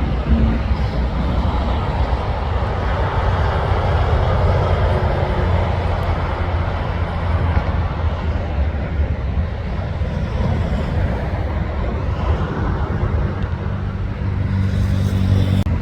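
Passing road traffic with heavy trucks: a steady low engine drone under tyre and road noise that swells and fades, growing louder again near the end.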